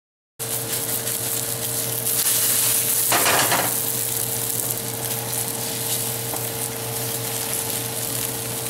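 Egg omelet sizzling in butter in a hot steel frying pan, browned side up after the flip. The sizzle cuts in abruptly just after the start and swells louder for a moment about three seconds in. A steady low hum runs underneath.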